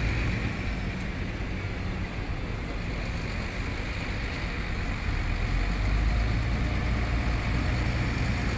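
Diesel engine of a 10-wheel dump truck running with a steady low hum, growing louder about five seconds in.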